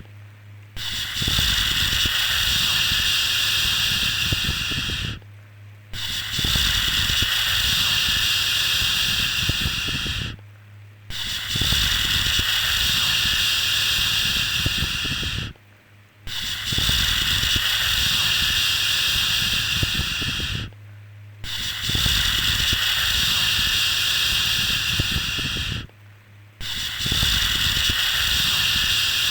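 Long 'shhh' shushing sounds, each about four and a half seconds, repeated in a steady rhythm with a short pause between them, six in all, over a low steady hum.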